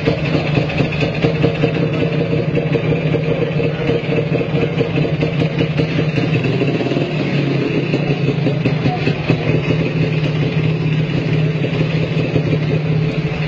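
Car engine running steadily at constant revs, a rapid rough rattle over its hum.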